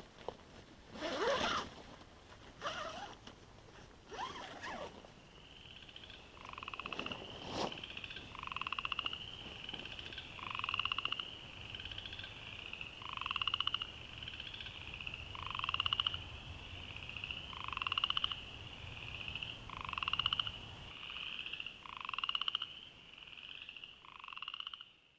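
Frogs calling at dusk: a steady high chorus of repeated peeps, with a lower pulsed trill coming in about every two and a half seconds. A few short rustling or handling noises come in the first seconds.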